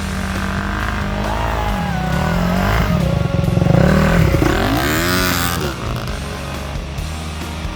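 Off-road motorcycle engine revving, its pitch rising and falling, loudest about four seconds in.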